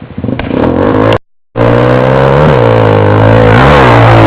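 A motor vehicle engine running loud and close at a nearly steady pitch, dipping briefly twice. The sound cuts out completely for a moment about a second in.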